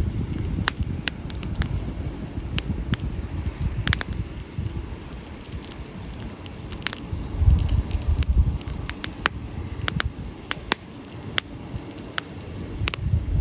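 Wood campfire crackling, with irregular sharp pops and snaps over a low rumble that swells briefly about halfway through.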